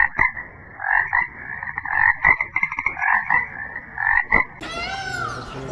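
Frogs croaking in a series of repeated calls. About four and a half seconds in, this cuts abruptly to a different animal call that rises and falls in pitch.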